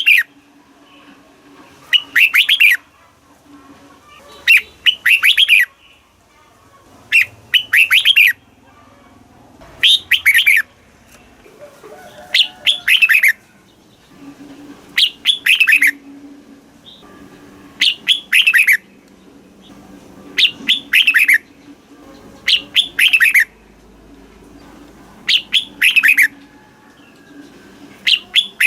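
Red-whiskered bulbul singing short, loud, warbling phrases, about one every two and a half seconds.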